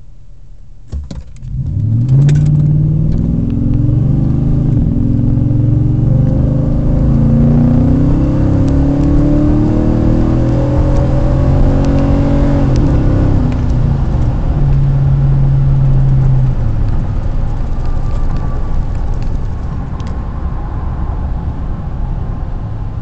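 Nissan Titan's 5.6-litre V8 through a Magnaflow true dual exhaust, accelerating hard from low speed. The exhaust note climbs and drops back several times as the automatic transmission shifts up. It then holds briefly and settles to a quieter steady rumble.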